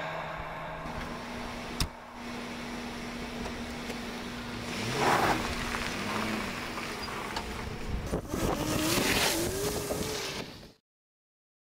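A car running with a steady engine hum, with two louder noisy surges. The engine pitch rises and wavers near the end. The sound cuts off suddenly just before the end.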